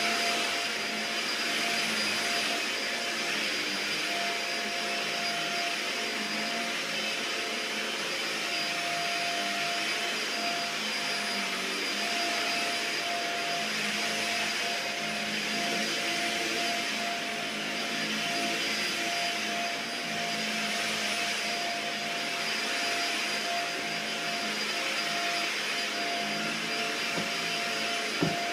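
Dyson upright vacuum cleaner running steadily over a floor, its motor whine holding one pitch while the suction noise swells and fades gently as it is pushed back and forth. There is a short knock near the end.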